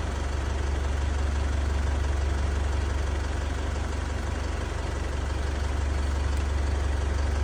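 Isuzu D-Max four-cylinder diesel engine idling steadily, with a low even hum. It is idling with fuel rail pressure that is not stable, swinging between 200 and 700 bar: the fault behind its hard starting and sudden stalling.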